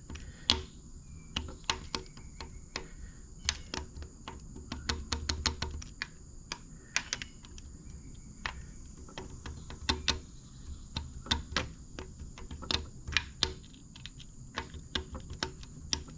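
Irregular light metallic clicks and taps, several a second in clusters, of hand tools working the valve lifters of a DeSoto Hemi engine to get them loose. A steady high chirring of crickets runs behind.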